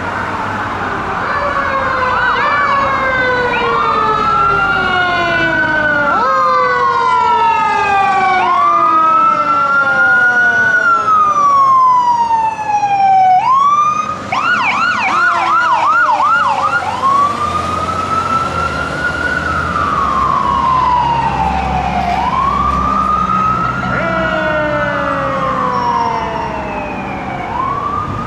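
Fire engine's electronic Whelen siren sounding while responding. It runs in a wail that rises quickly and falls slowly every few seconds, switches to a rapid yelp for a few seconds about halfway through, then goes back to the wail, over the truck's low engine rumble.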